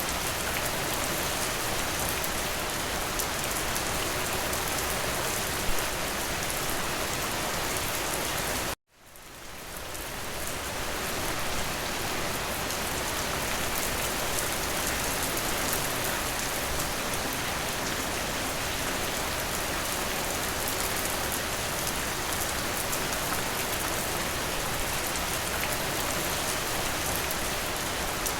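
Steady rain falling, an even hiss of many drops with one sharper drop tick. About a third of the way in the rain cuts out abruptly for an instant and fades back in over a second or two.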